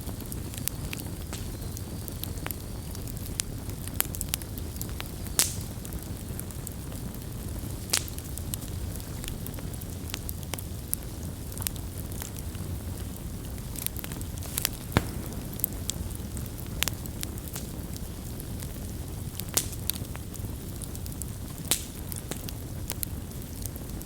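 Campfire burning: a steady low rumble of flames with irregular sharp crackles and pops, a few louder pops standing out.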